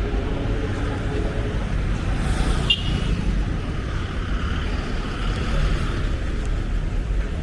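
Road traffic: a steady rumble of vehicle engines and tyres, with a short high-pitched squeak a little under three seconds in.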